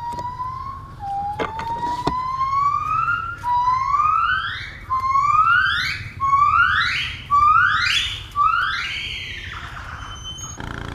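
Caged monkey calling: a string of about seven rising whooping notes, each climbing higher than the last and coming faster, building to a long high note that falls away near the end.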